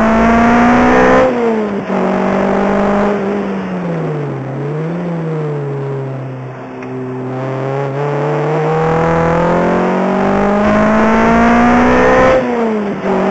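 Lotus Exige engine heard from inside the cabin while lapping a track: it climbs in pitch under acceleration and drops sharply about a second in at a gear change. It then winds down with a brief blip near the middle as the car slows for a bend, climbs steadily again, and drops sharply at another gear change near the end.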